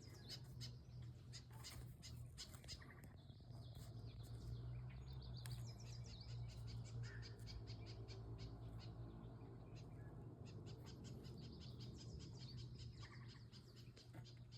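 Faint chirps and calls of wild birds, many short high notes and a few quick runs of chirps, over a steady low hum.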